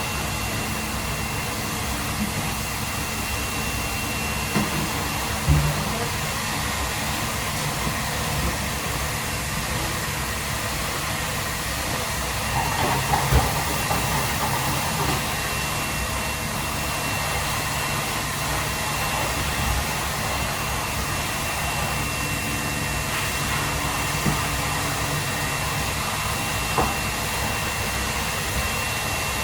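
Steady rushing kitchen noise, machine-like and even, with a few brief knocks.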